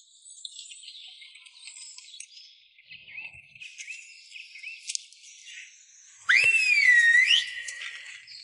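Faint scattered chirping, as of insects and birds. About six seconds in, a loud whistle-like call sounds for about a second, sliding up, dipping, then rising again.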